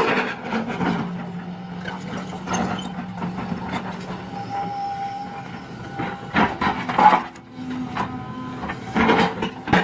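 Tractor engine running, with several sharp knocks and clanks, the loudest about seven seconds in.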